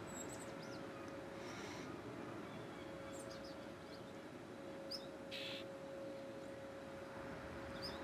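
Small birds giving a few brief high chip notes, scattered through, over a steady low hum and background noise; a short rustle about midway.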